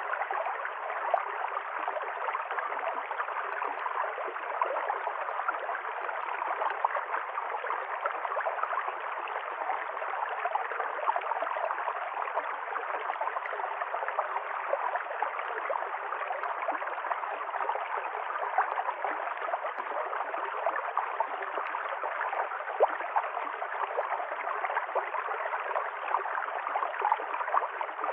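Small river stream running over stones: steady rushing water with constant small splashes and gurgles.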